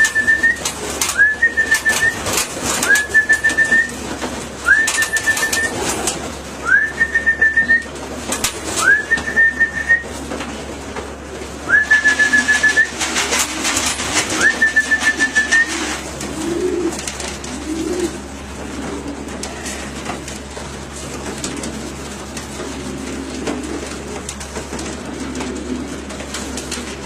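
A repeated short whistle, each note rising and then held, about eight times over the first 16 seconds, with a feed can being shaken: the call used in trap training to bring racing pigeons in to feed. Pigeons coo softly as the whistling stops.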